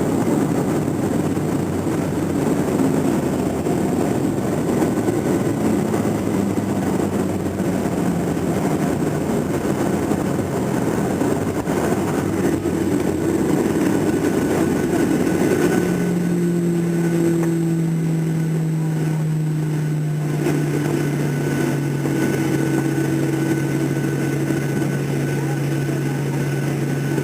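Cabin noise inside a Boeing 737-800 airliner: a loud rushing roar of airflow and CFM56 engines that thins out about sixteen seconds in, leaving a steady low engine hum whose pitch sinks slowly.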